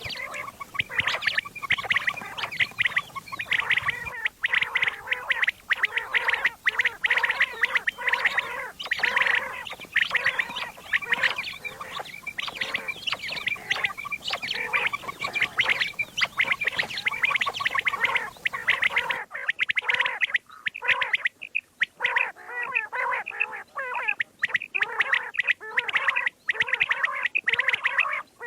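Quail (batair) calling in a dense, continuous chatter of rapid calls. About two-thirds of the way through, the background hiss drops away suddenly.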